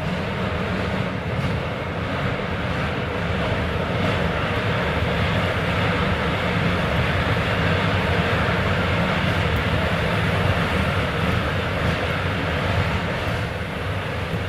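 Running noise heard inside a Keisei 3400 series electric train car under way: a steady rumble of wheels and traction motors with the air conditioning running, swelling a little midway and easing near the end.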